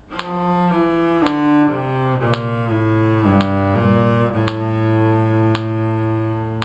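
Bowed string instrument in the cello range playing a slow melody of held notes, over a metronome click about once a second.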